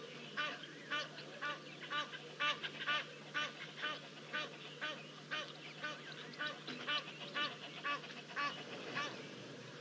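A bird calling over and over, short calls repeated about twice a second without a break, over a faint steady low hum.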